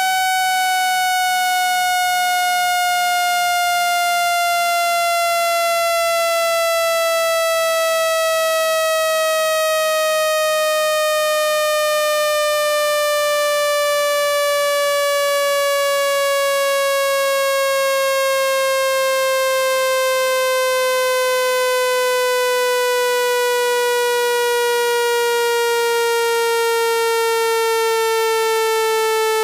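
Electronically generated buzzy tone, rich in overtones, gliding slowly and steadily down in pitch at a constant level. It is a phone speaker-cleaning sound, a vibrating frequency meant to shake water droplets and dust out of the speaker and earpiece.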